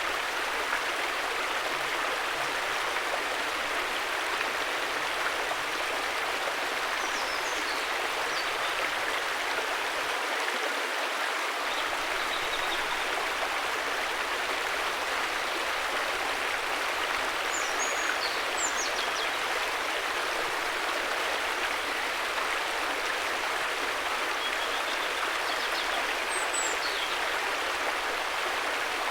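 River water rushing and babbling in a steady, even flow. A few faint short high chirps come through over it three times.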